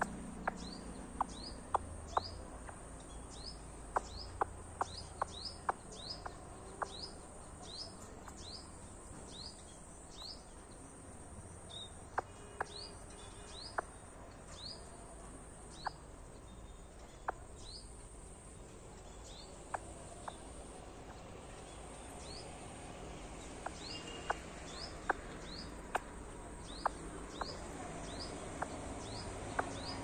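A bird repeats a short rising chirp over and over, about one to two a second, with a lull in the middle. Sharp ticks are scattered through and are the loudest sounds.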